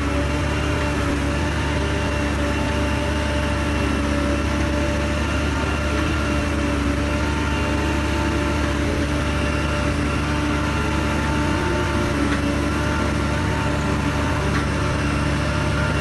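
Diesel engine of earthmoving machinery running at a steady, unchanging pace: a constant low drone with several fixed tones over it.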